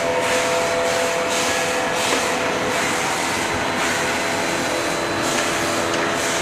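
Small electric air blower running steadily: a constant rushing noise with faint steady tones under it, of the kind used to inflate latex balloons for printing.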